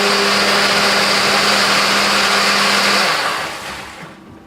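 Countertop blender running at full speed, grinding a sandwich and potato chips into a thick drink, then switched off about three seconds in, its motor winding down.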